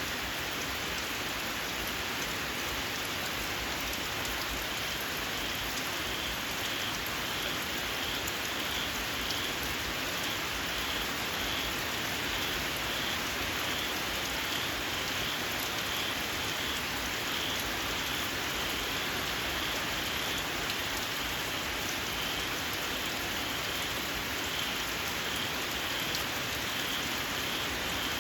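Steady rain falling, with a small frog calling shrilly in a long run of short repeated notes, about two a second.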